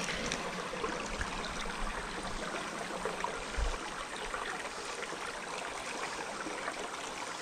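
Shallow creek water running and trickling steadily, with a soft low bump about three and a half seconds in.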